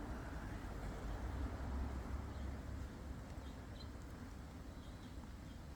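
Low steady rumbling noise with a few faint, short high chirps in the middle, like a bird heard over outdoor background noise.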